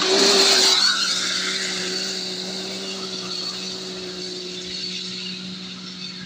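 Off-road rally car's engine, loudest in the first second with a rush of noise, then holding steady revs as it fades away.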